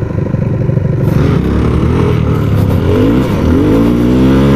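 Yamaha WR250F's single-cylinder four-stroke engine revving under throttle, its pitch climbing in sweeps with a short drop between them as the bike pulls hard.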